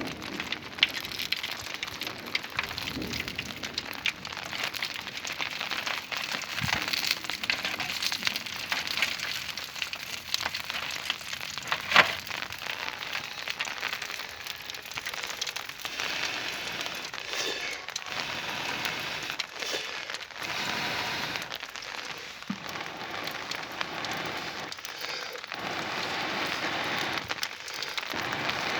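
Steady rain falling, with many small scattered clicks and one sharp, loud crack about twelve seconds in.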